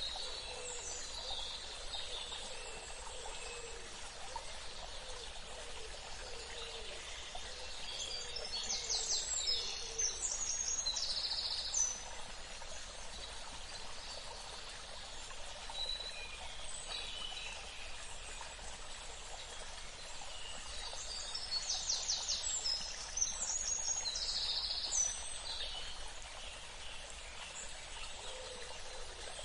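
Birds singing and chirping over a steady outdoor hiss. The same song phrase, a quick trill followed by a few higher notes, comes twice: about eight seconds in and again about twenty-one seconds in.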